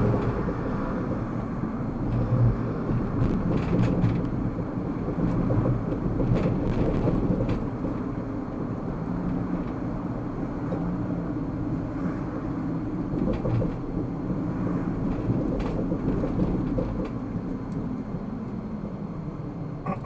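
Car driving, its engine and road noise heard from inside the cabin as a steady low rumble with a few faint clicks, growing a little quieter near the end.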